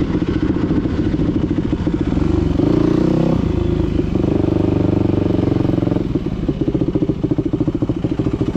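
Dirt bike engine running under changing throttle, with a short rise in pitch about two and a half seconds in and choppier, uneven firing near the end.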